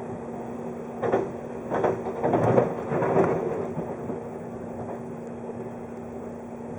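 A 583 series electric train running, heard from inside the carriage as a steady hum. About a second in comes a burst of heavy, irregular rumbling knocks lasting two to three seconds, loudest in the middle, then it settles back to the steady hum.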